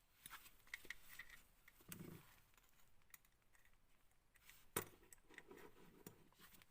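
Faint clicks and light metal-on-metal handling as small pliers work a nitro engine's connecting rod and piston into place, with one sharper click nearly five seconds in.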